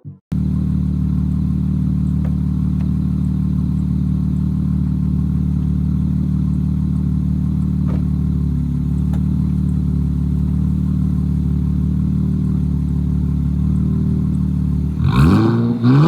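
2024 Nissan Z's twin-turbo V6 idling steadily through an aftermarket Rae-motorsports axle-back exhaust, with one quick rev near the end.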